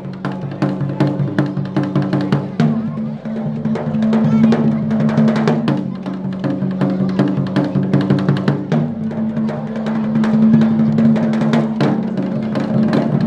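Japanese taiko drums played in fast, dense strikes, the drum heads ringing low under the beats; the pattern changes about every three seconds.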